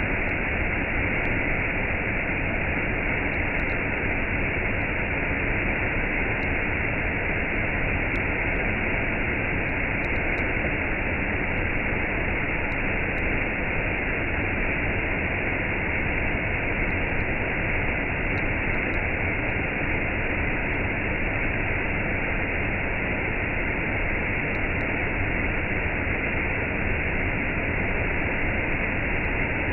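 Waterfall with a cascade: water falling and rushing in a steady, unbroken roar.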